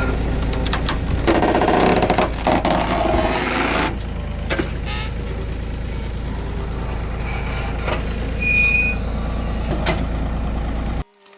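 A machine running steadily with a deep hum under clanking, clicking and scraping workshop noises, with a short high squeak near the end; the hum cuts off suddenly just before the end.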